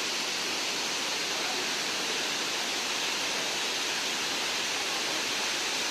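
Steady rushing of a waterfall, an even, hiss-like roar of falling water with no change in level.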